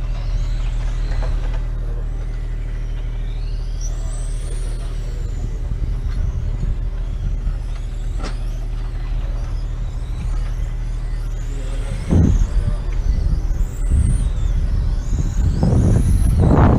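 Racing motorcycles running on the circuit, their engine notes rising and falling as they rev through the gears. Two bikes pass close and loud, one about twelve seconds in and another near the end, over a steady low drone.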